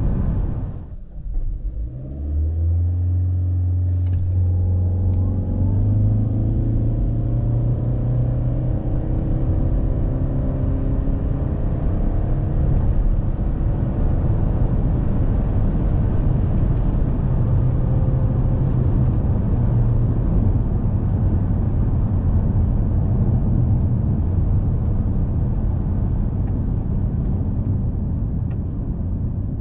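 2020 Toyota C-HR Hybrid's 1.8-litre four-cylinder engine cutting in about two seconds in and then running at a steady droning pitch as the CVT holds its revs while the car accelerates. A whine climbs in pitch over the next few seconds, with steady road noise underneath.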